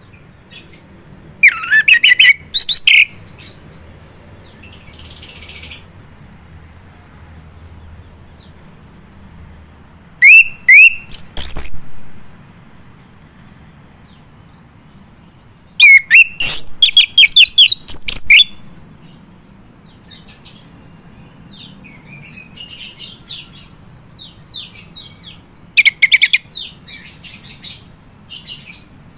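Male chestnut-capped thrush (anis kembang) singing in loud bursts of quick, high whistled and twittering phrases, with pauses of a few seconds between bursts.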